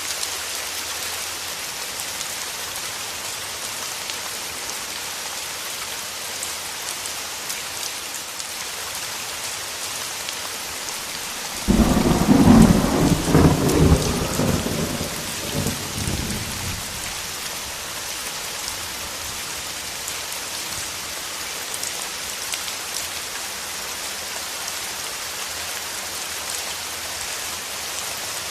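Steady rain falling, with a sudden clap of thunder about twelve seconds in that rumbles on for several seconds before fading back into the rain.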